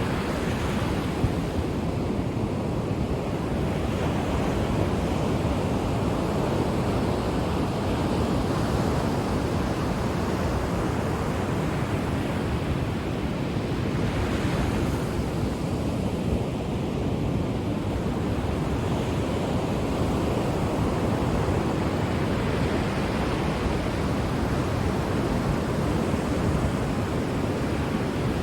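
Ocean surf washing on a shore in a steady rush, swelling brighter as a wave breaks near the start and again about halfway through.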